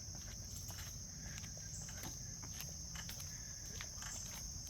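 Steady, high-pitched insect chorus, with a few faint ticks and taps scattered through it.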